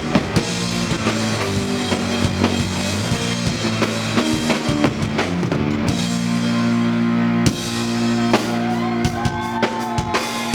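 Live rock band playing an instrumental passage: a drum kit with steady hits over sustained guitar and bass notes.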